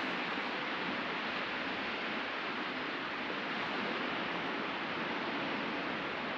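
Sea surf washing onto the beach: a steady, even rush of noise without distinct breaks.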